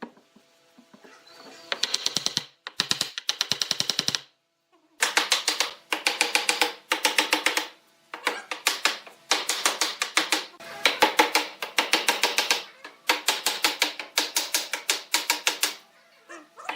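Rapid clicking or tapping in bursts of about a second, roughly ten clicks a second, with short pauses between bursts.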